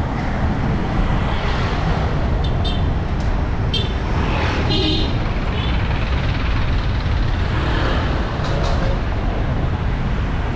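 Steady road traffic noise heard on the move, under a heavy low rumble. A few short clicks come between about two and a half and four seconds in, and a brief higher-pitched sound about five seconds in.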